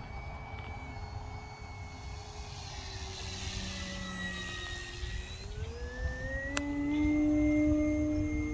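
Electric motor and propeller of an E-flite Carbon-Z Cessna RC plane in flight, its whine slowly falling in pitch as it passes, then rising and getting louder as the throttle comes up about six seconds in. A single sharp click about six and a half seconds in.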